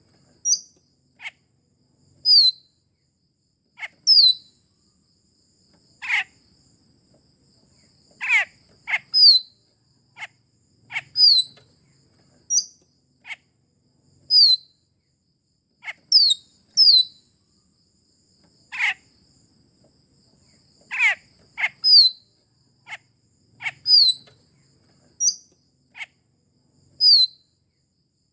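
Raja perling, a Sulawesi starling, giving its lure call: short, sharp, high calls that sweep downward in pitch, repeated every one to two seconds. A steady, high-pitched insect-like drone runs underneath.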